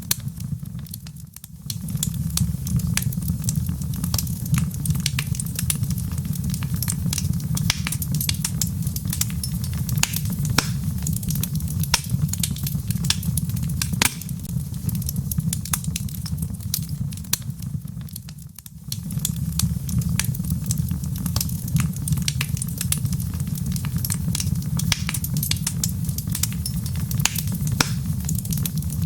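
Wood fire burning in a fireplace, crackling with frequent sharp pops over a steady low rumble. The sound dips briefly twice.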